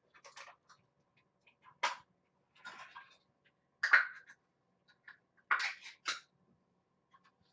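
A spoon scraping and clinking against a can as wet cat food is scooped out, in several short clattering bursts, the loudest about four seconds in.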